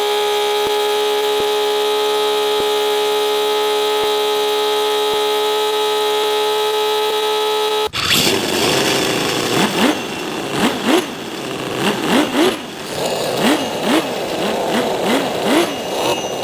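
An engine sound: a steady, even hum for about eight seconds that cuts off abruptly, followed by rougher running with a quick series of short revs rising and falling in pitch.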